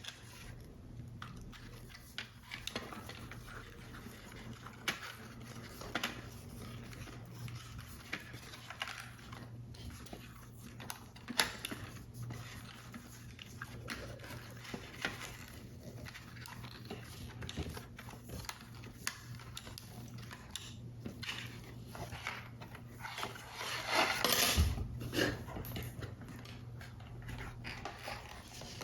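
Paper model assembly sounds: scattered small clicks, taps and rustles of card stock and tools being handled, with a longer, louder rustle or scrape about 24 seconds in. A low steady hum runs underneath.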